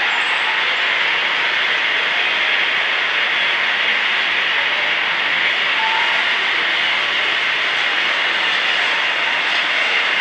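A loud, steady rushing noise with no rhythm, brightest in the upper middle range: the test noise run for a sound-level measurement of a recycled-rubber noise barrier.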